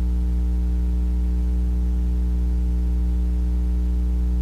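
Steady low electrical hum with a stack of evenly spaced overtones over a faint hiss, unchanging throughout: mains hum picked up in the recording.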